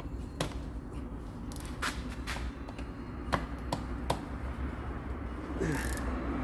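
Scattered light metallic clicks and taps from hand tools and car parts being handled, with a brief scrape near the end, over a steady low hum.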